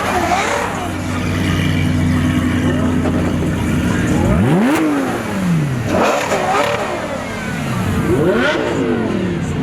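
Supercar engines running with a steady hum, then revving hard several times, each rev rising and falling sharply in pitch.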